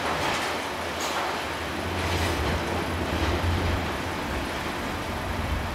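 Class 144 Pacer diesel railbus under way, heard from inside the passenger saloon: a steady low drone with rumbling noise from the running gear, swelling a little about two to three seconds in.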